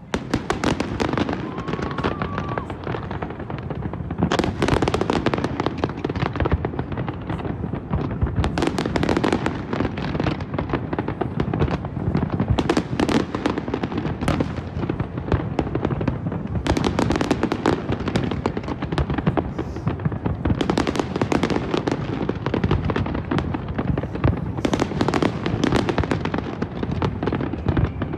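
Large fireworks display: a dense, continuous run of bangs and crackles from many shells bursting, swelling into louder volleys every few seconds.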